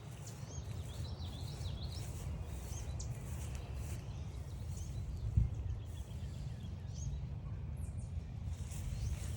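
Wild birds calling in short, scattered chirps over a steady low rumble, with one dull thump about five seconds in.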